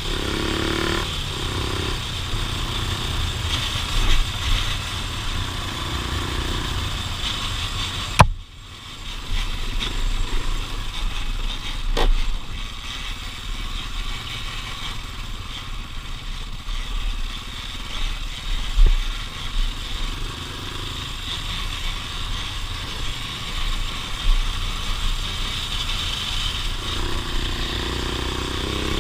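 Off-road vehicle engine running along a trail, revving up near the start and again near the end, over a steady low rumble with knocks and rattles. A sharp knock comes about eight seconds in, and another about four seconds later.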